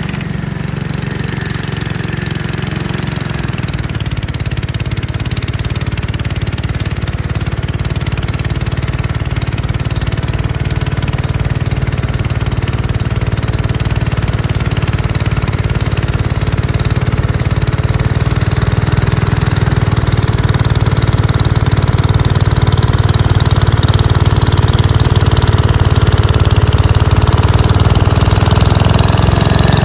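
Gravely Commercial 10A walk-behind tractor with a Dogeater snowblower attachment, its engine running steadily and growing gradually louder.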